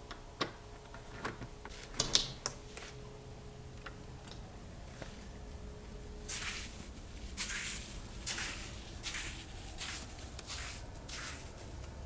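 A few clicks of camera handling, then about a second in a half a steady run of soft crunching footsteps in snow, about one step a second, starting about six seconds in.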